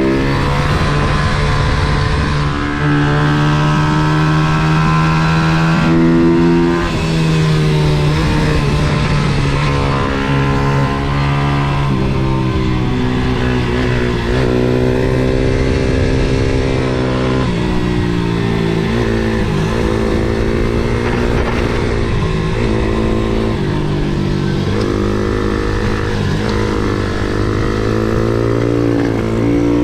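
MRF 140 SM pit bike's single-cylinder four-stroke engine heard from on board while being ridden hard: the note climbs under throttle, steps at each gear change, and drops when the throttle is shut for corners, over and over.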